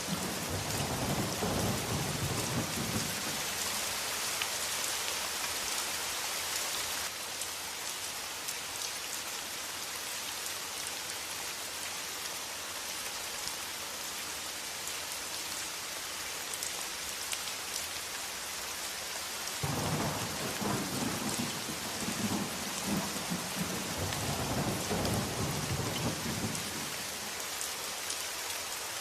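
Steady heavy rain, with deep rolls of thunder rumbling at the start and again for several seconds about two-thirds of the way through.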